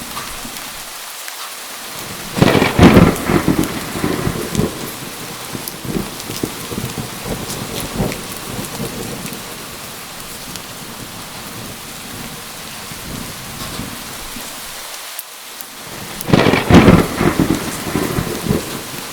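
Steady heavy rain with two loud thunderclaps, one about two and a half seconds in and another near the end, each crackling and then rumbling away over a few seconds.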